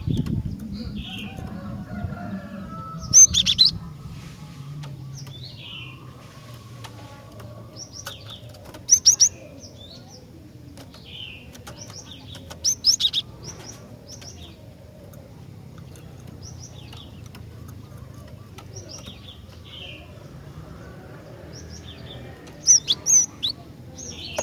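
Female cinereous tit calling: four loud bursts of sharp, high, quickly repeated notes, with softer short chirps in between.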